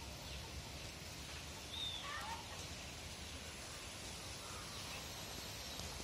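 Quiet garden ambience: a steady faint hiss, with a few short bird chirps about two seconds in.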